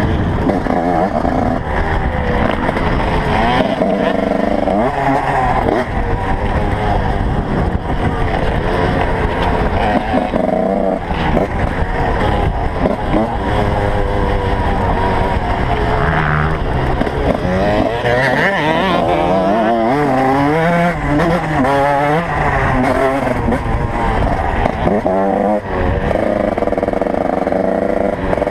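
Several motocross bikes running together, their engines revving up and down, with overlapping rising and falling engine notes.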